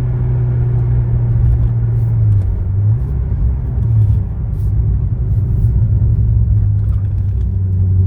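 Supercharged LS9 V8 of a 2010 Corvette ZR1 running at part throttle while driving, a steady low rumble whose pitch dips briefly a couple of times.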